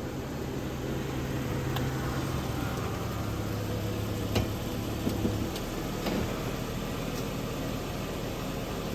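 2013 Jeep Wrangler's 3.6-litre V6 idling steadily, with a few sharp knocks or clicks around the middle.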